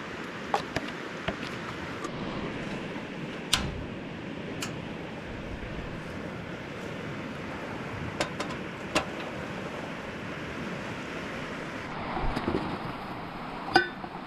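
Portable camping stove burning steadily under a kettle of water that is heating toward the boil, with scattered sharp clicks and a metallic clink near the end.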